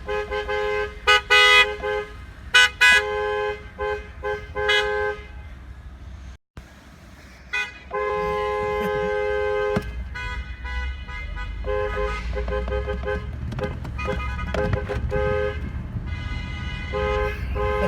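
Vehicle horn honked over and over: a string of short beeps, a long blast of about two seconds, then quick rhythmic beeps, the horn sounding two notes at once. A low engine rumble runs underneath.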